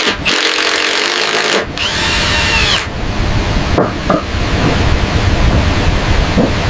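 Wood being sawn and worked with tools, in several short segments cut abruptly together, over a steady rushing noise.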